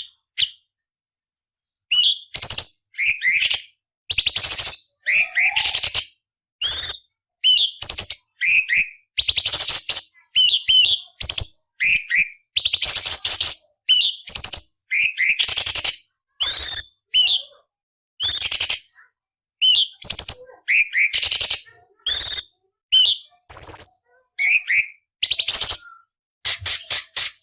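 Orange-bellied leafbird (cucak cungkok) singing: rapid phrases of sharp sweeping whistled notes mixed with harsh, scratchy chattering bursts, separated by short pauses.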